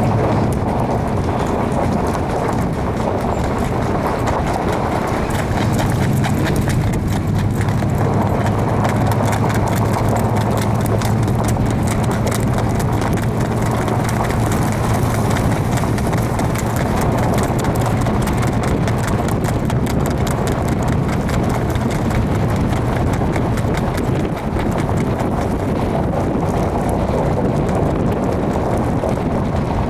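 Standardbred horse's hooves beating in a fast, continuous run of hoofbeats, over a steady low hum.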